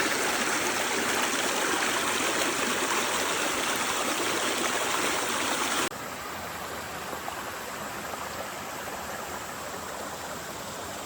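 Mountain stream water rushing steadily over rocks. About six seconds in it drops suddenly to a quieter, steady level.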